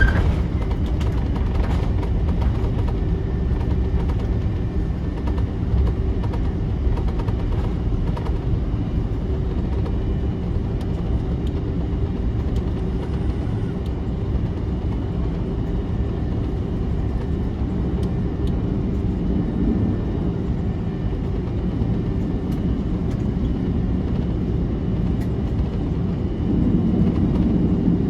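Airbus A330-300's Rolls-Royce Trent 700 engines and airframe rumble heard from inside the cabin while the airliner taxis, as a steady low drone. It grows a little louder near the end.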